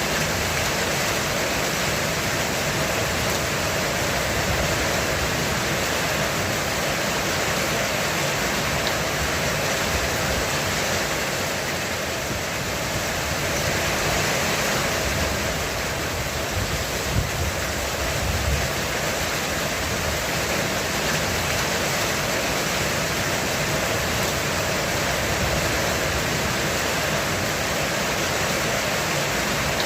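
Heavy rain falling steadily on a roof, a dense even hiss. A short, low thud comes a little past the middle.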